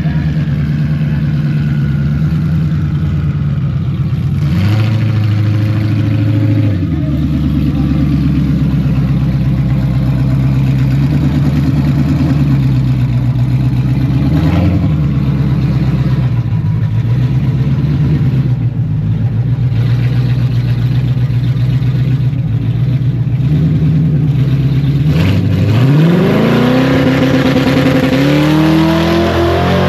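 Twin-turbo 5.0 Coyote V8 Mustang engine running at a lumpy idle, with a short rev about five seconds in and another brief one around the middle. Near the end it launches hard, its pitch climbing fast, then rising again in steps as the gears go through.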